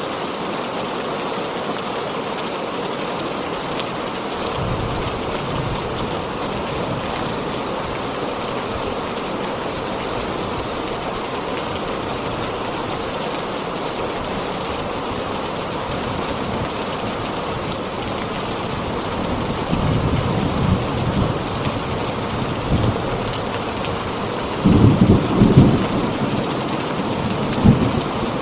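Heavy rain falling steadily, with thunder rumbling in from about five seconds in. The thunder grows stronger, with the loudest peals in the last few seconds.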